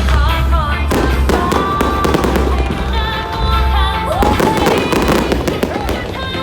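Fireworks popping and crackling over loud music with a pulsing bass and a melody.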